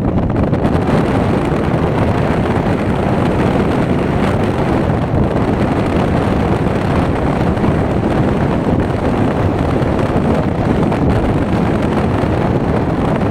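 Strong wind blowing across the microphone: a loud, steady rumbling roar of wind noise.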